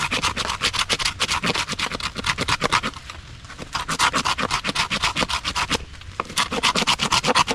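Knife spine scraping wet bark off a piece of firewood in rapid strokes, several a second, with two short pauses.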